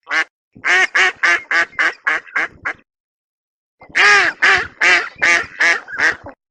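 Duck quacking: two rapid runs of short quacks, about three a second, the calls fading slightly within each run. The second run is louder.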